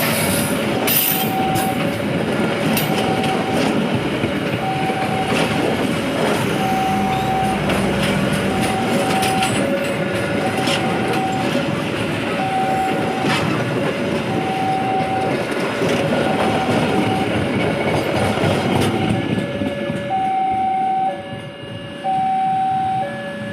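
Passenger train cars running past over the rails, a steady rumble with many sharp clicks of the wheels over the rail joints, which fades out about nineteen seconds in. Over it a level-crossing warning alarm sounds a repeating high-low two-tone chime throughout.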